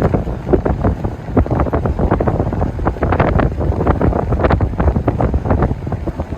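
Strong wind buffeting the microphone in irregular gusts, a rough, rumbling rush.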